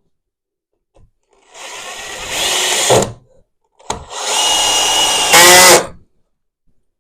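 Power drill run twice in short bursts, each about one and a half to two seconds long and loudest just before it stops, with a click between the two runs.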